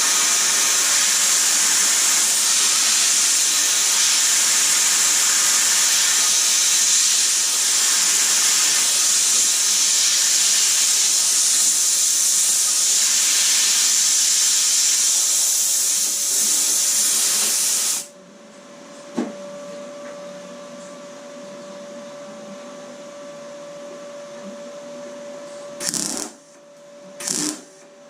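Compressed air blowing in a steady loud hiss onto freshly tack-welded door-bottom metal to cool it. It cuts off suddenly about two-thirds of the way in, leaving a faint steady hum, then a few sharp metallic clicks near the end.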